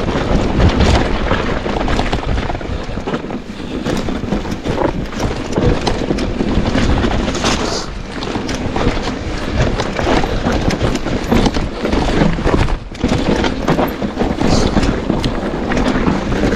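Downhill mountain bike ridden fast over a rough trail: tyres rumbling over dirt and stones, the bike clattering with many small knocks, and wind buffeting the microphone.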